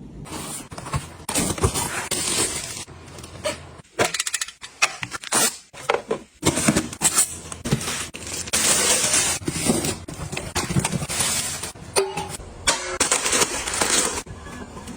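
Close-up handling sounds: irregular rustling and clicking as items and packaging are picked up, moved and set down, with a brief lull about four to six seconds in.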